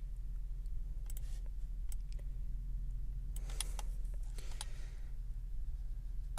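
Scattered clicks of a computer mouse and keyboard while working, a few single clicks and then a quick cluster about three and a half seconds in, over a steady low electrical hum.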